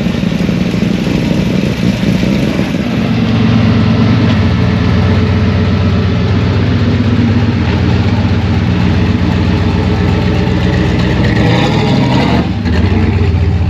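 Car engine running loud and steady at idle, with a brief rev near the end.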